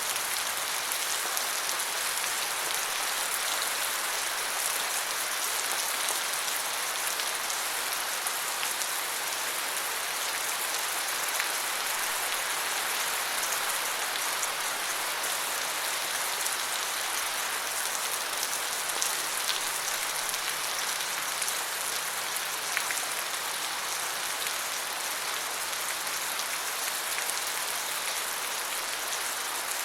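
Steady rain falling on forest leaves, an even hiss dotted with the ticks of individual drops.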